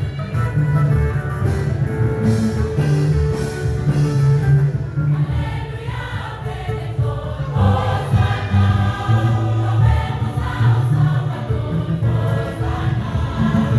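A gospel choir singing over a band with steady bass notes; the voices grow fuller about halfway through.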